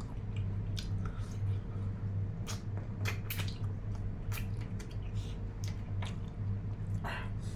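A person chewing and biting food close to the microphone, with irregular wet mouth smacks and clicks over a steady low hum.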